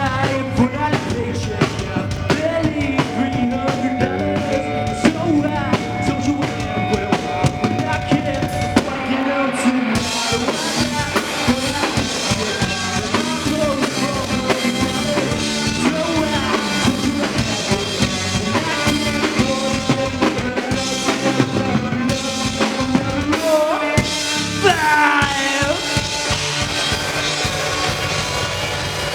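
Live rock band playing an instrumental passage, with a drum kit (bass drum and snare) driving it. There is a held note early on, the cymbals fill out about ten seconds in, and sliding notes bend up and down near the end.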